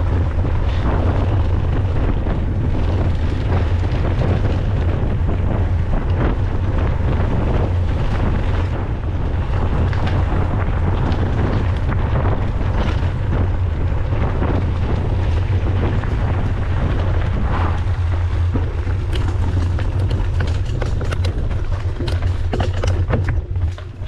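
Wind buffeting the camera microphone while riding a mountain bike on a trail, a steady rumble with tyre and trail noise under it. Sharp clicks and knocks come thick and fast in the last few seconds.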